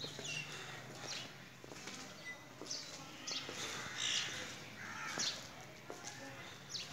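Birds chirping and calling: short high chirps about once a second, the loudest about four seconds in, over a faint low background rumble.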